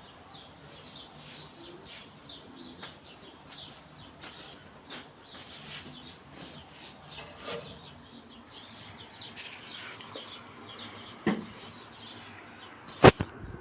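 Small birds chirping in many short, high peeps over a steady background hiss. A sharp click about 11 seconds in and a louder, sharper one near the end stand out above the chirping.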